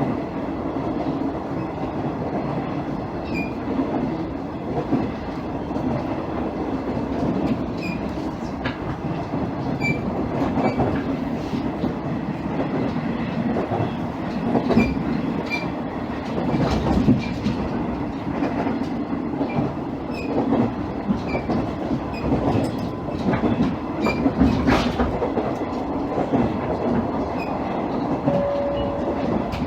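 JR East KiHa 110 series diesel railcar heard from inside the car while running: a steady diesel engine and running drone, with the wheels clicking irregularly over rail joints and a short steady tone near the end.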